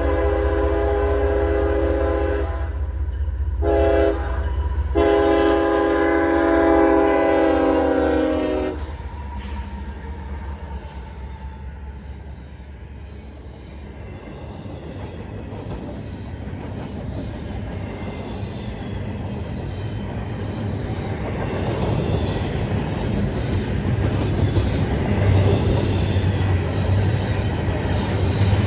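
Diesel freight locomotive's multi-tone air horn sounding for the crossing: a long blast, a short blast, then a long blast that cuts off about nine seconds in, over the deep rumble of the locomotives' engines. After that comes the steady rumble and clatter of the freight cars rolling past, which grows louder toward the end.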